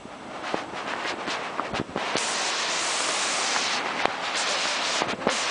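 Steady rush of falling or flowing water, swelling to a loud even hiss about two seconds in, with scattered sharp knocks and clicks.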